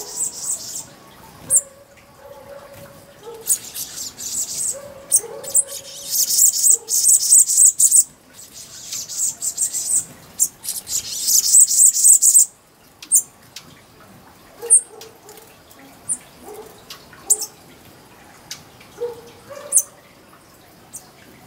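Small birds calling with high, rapid twittering. Two dense bursts of chatter come, the first from about four to eight seconds in and the second from about ten to twelve seconds, followed by scattered single high chirps.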